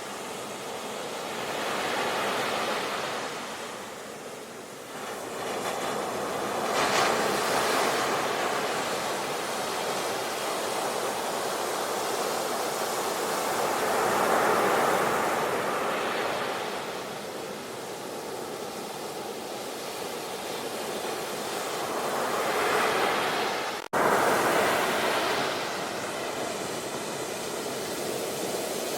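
Ocean waves breaking and washing up the shore, the noise swelling and ebbing every few seconds. About three-quarters of the way through the sound cuts out for an instant and comes straight back.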